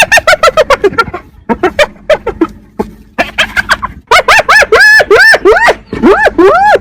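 Spotted hyena giggling: loud, fast runs of short, high-pitched yelping notes, several a second, with brief pauses between runs; in the middle and near the end the notes rise and fall in pitch.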